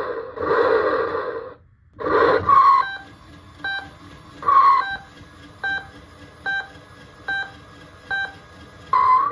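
Electronic sound effects from a Road Rippers toy truck's sound chip through its small speaker: a few short noisy bursts, each with a quick rising squawk, then a string of short, evenly spaced beeps a little under a second apart.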